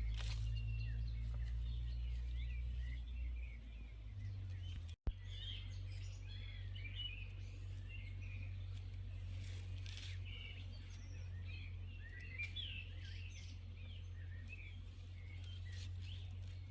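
Small birds chirping and twittering throughout, over a steady low background hum. A sharp click and a brief cut-out come about five seconds in.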